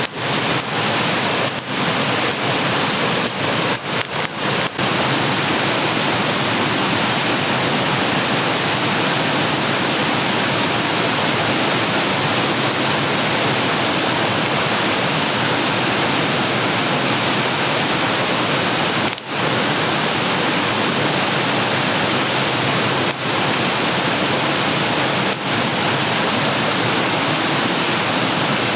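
Food sizzling in a frying pan: a loud, steady sizzle, broken by a few brief dips.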